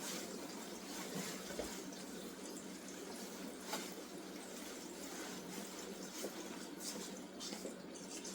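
Steady low hiss of room noise, with a few faint, brief rustles and clicks.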